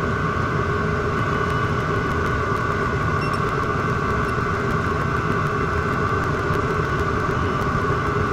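Chinese diesel heater running steadily: a continuous whirring drone from its combustion fan and burner.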